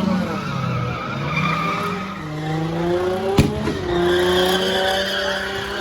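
Car engines revving and tires squealing, the pitch stepping up and down, with one sharp crack about three and a half seconds in.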